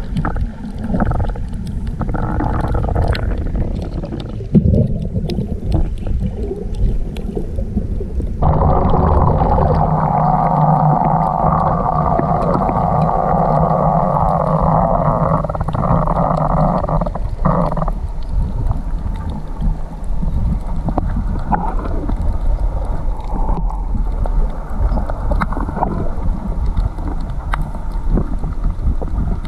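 Muffled underwater noise of the sea around a coral reef: a steady low rumble with small clicks and water sounds, and a steady hum that comes in about eight seconds in and stops abruptly about nine seconds later.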